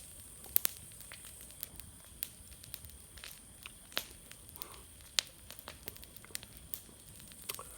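Bonfire of dry leaves, grass and garden brush crackling, with irregular sharp pops over a faint steady hiss.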